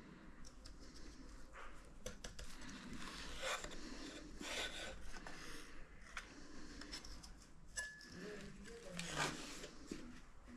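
Faint rubbing and scraping with scattered small clicks and taps, as of hands and tools handling parts during a TV teardown.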